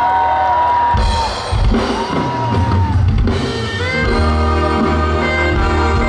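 Live pop band music played through a concert sound system: a held melody line, then a drum kit comes in with a fill about a second in, and the full band settles into sustained chords from about four seconds.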